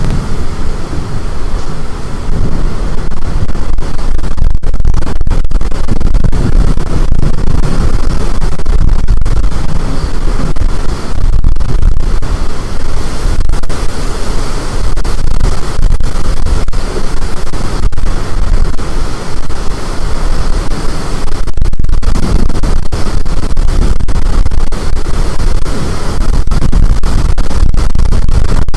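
Strong storm wind buffeting the microphone: a loud, steady rushing noise, heaviest in the low rumble, that overloads the recording throughout.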